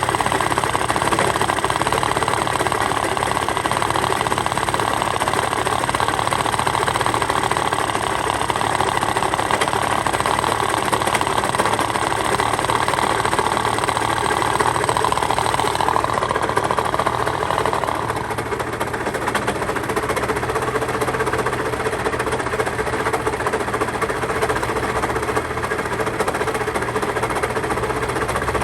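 Honda Live Dio AF34 scooter's 50cc two-stroke engine running with a rattling, knocking noise: the abnormal engine noise being checked. About two-thirds of the way through, the sound drops and settles into a lower, steadier run.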